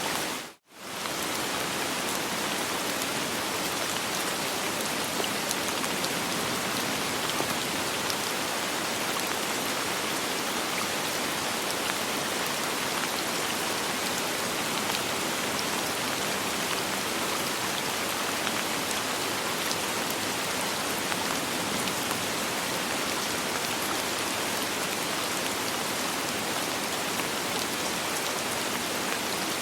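Soft rain falling steadily, an even hiss of drops with no thunder. It cuts out completely for a split second about half a second in, then carries on unchanged.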